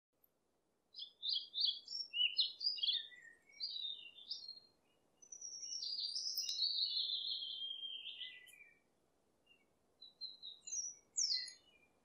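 Songbird singing in quick, varied chirping phrases, with a longer sweeping phrase in the middle and a few short chirps near the end, over a faint steady background hiss.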